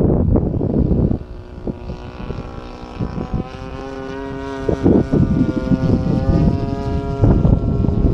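Single-cylinder two-stroke DLE 35 gas engine of a radio-controlled Extra 260 aerobatic plane in flight, its engine and propeller note holding steady and growing clearer partway through. Wind buffets the microphone in gusts, heaviest in the first second.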